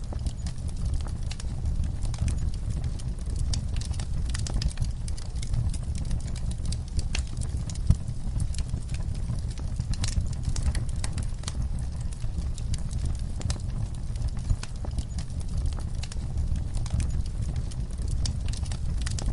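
Campfire crackling: a steady low rumble of flames with frequent irregular sharp pops and snaps.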